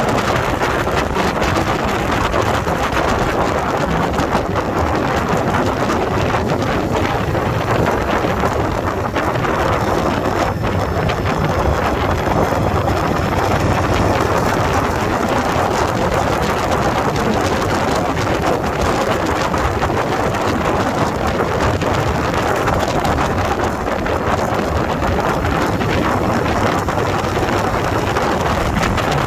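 Wind buffeting the microphone of a riding motorcycle, with the bike's engine and road noise running steadily beneath it.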